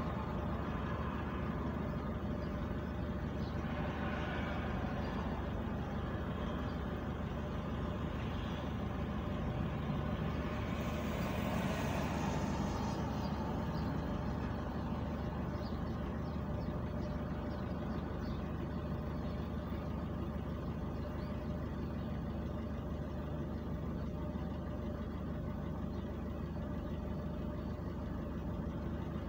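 Car engine idling at a standstill, a steady low hum. About twelve seconds in, a passing car briefly swells the noise with a rising and fading hiss.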